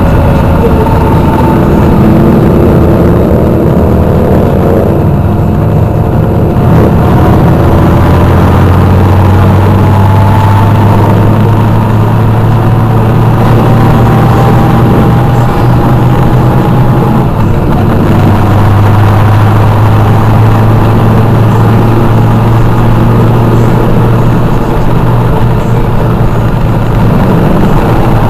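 Motorcycle engines running loudly and steadily, with a deep unbroken drone and a fainter tone that slowly climbs in pitch.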